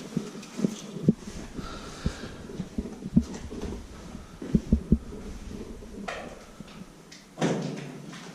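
Footsteps on concrete and loose debris: irregular dull thuds, some of them knocks, with a brief rustling scrape near the end.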